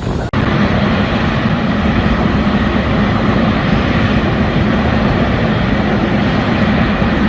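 Jet airliner engines running with a steady drone and hiss, which starts abruptly a moment in.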